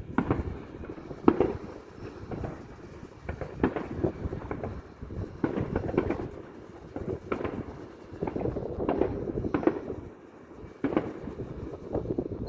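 Fireworks display: aerial shells bursting one after another at irregular intervals, sharp bangs over a continuous low rumble. The loudest bang comes about a second in.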